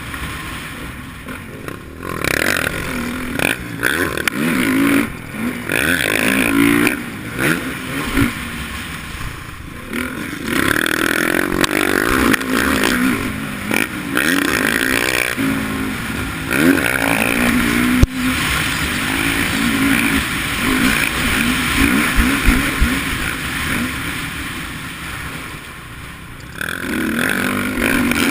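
Motocross dirt bike engine revving up and falling away again and again as the throttle is worked around the track, the pitch climbing and dropping. A single sharp knock about two-thirds of the way through.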